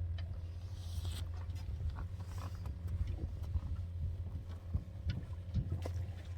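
A boat engine idling with a low, steady rumble, with scattered knocks and clicks of gear against the hull and a short hissing swish about a second in.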